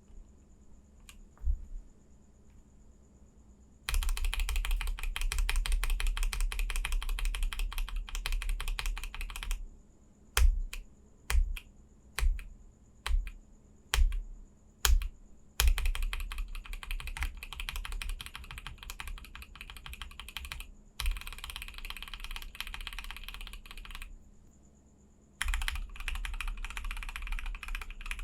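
Linear mechanical keyboard switches being typed on rapidly in several bursts of a few seconds each. In the middle comes a run of about nine separate single key presses, each one clearly spaced from the next.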